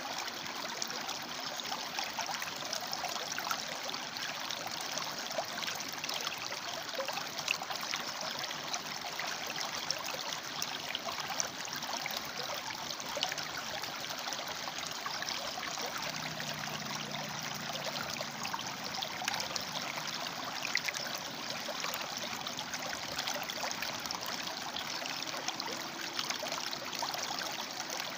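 River water flowing over and between rocks: a steady rushing with small splashes. A faint low hum shows for a few seconds past the middle.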